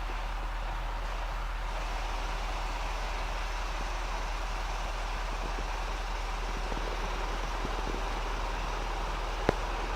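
Iteco rollover truck wash's rotating brushes scrubbing a truck cab with water spray: a steady rushing wash noise over a low hum, swelling slightly about two seconds in. A single sharp knock near the end.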